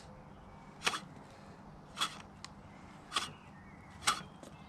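Reel blades of a freshly sharpened cylinder mower snipping paper against the bottom blade as the reel is turned: four short, crisp snips about a second apart, the sign of a clean cut right across the blade.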